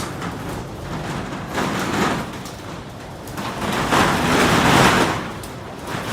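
Typhoon wind blowing in gusts that swell and fade, the strongest gust about four to five seconds in.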